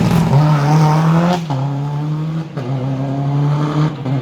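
Rally car engine running hard at high revs, its note broken three times by short cuts in the sound.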